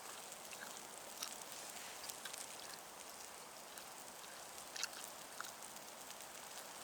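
Campfire crackling faintly over a steady low hiss, with a few small scattered pops, the loudest about five seconds in.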